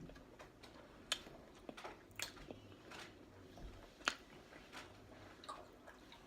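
Faint scattered clicks and ticks, about a dozen short, irregular ones, close to the microphone in a quiet room.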